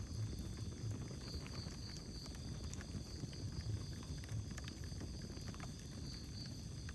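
Wood fire burning in a fireplace: a low, uneven rumble of flames with scattered sharp crackles and pops from the burning wood.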